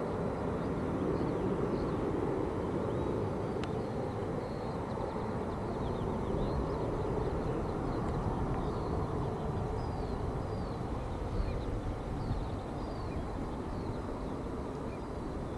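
Distant jet rumble of a departing Airbus A320-232 and its IAE V2500 engines, steady and slowly fading. A bird chirps repeatedly in short high calls.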